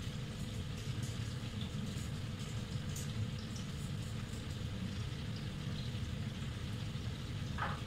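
Beef kofta meatballs frying in bubbling oil in a pan: a steady sizzle with faint scattered crackles over a low, even rumble, and a brief sharper sound near the end.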